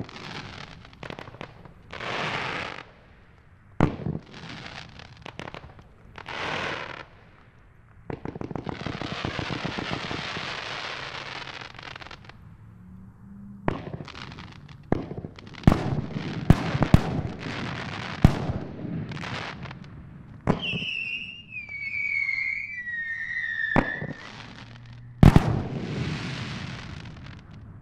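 Alien Fireworks 'Conspiracy Theory' 500-gram cake firing. It makes a string of launch thumps and sharp bangs, with a dense crackle from crackling comets for a few seconds about a third of the way in. About twenty seconds in comes a warbling whistle that falls in pitch for about three seconds.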